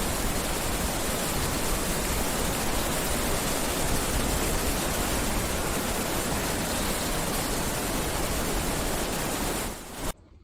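Steady, loud rushing hiss with no rhythm or pitch, cutting off abruptly near the end.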